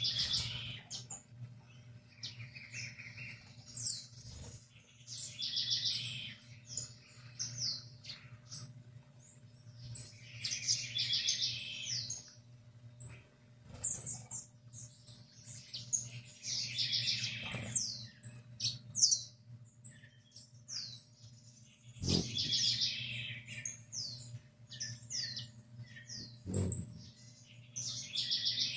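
Birds chirping: many short high chirps, with bursts of rapid chattering every five or six seconds, over a faint steady low hum. A sharp click about four seconds in, and a couple more later.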